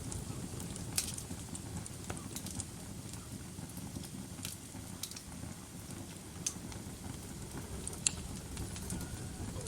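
Fire burning in a fireplace: a steady low rumble of flames with scattered sharp crackles and pops, about six in all.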